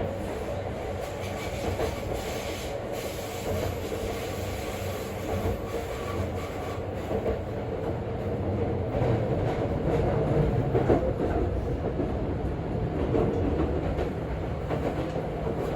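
Seibu 40000 series electric train running at speed, heard from inside the car: a steady rumble of wheels on rail with a faint motor tone and scattered clicks over rail joints.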